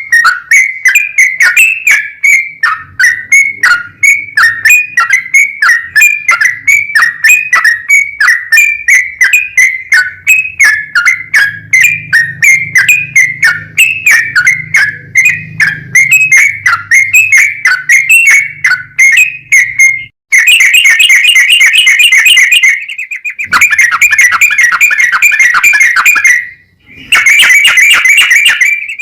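Yellow-vented bulbul (trucukan) singing loudly: a long series of short whistled notes, about three a second, then, about two-thirds of the way through, a fast rolling chatter that comes in three bursts separated by brief pauses.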